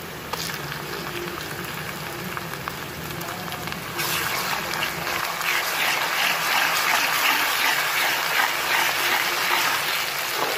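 Chopped onions frying in hot ghee in a steel pot, a steady sizzle that jumps sharply louder about four seconds in as ginger-garlic paste goes into the hot fat.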